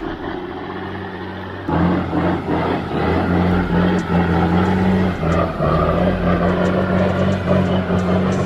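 Heavy log-loaded truck's engine working hard under load, a steady low drone that gets louder about two seconds in and holds.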